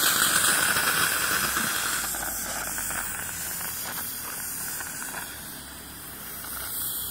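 Steam hissing out of a small Tiny Power model steam boiler running at about 80 pounds of pressure. The hiss starts abruptly and slowly fades.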